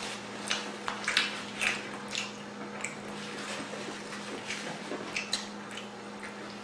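Close-up eating sounds: wet chewing and lip smacking, a scatter of short clicks and squishes over a faint steady hum.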